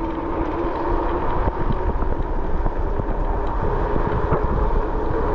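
Wind buffeting the microphone while riding an e-bike, over a low rumble and a steady whine from the electric motor that rises a little in pitch about halfway through.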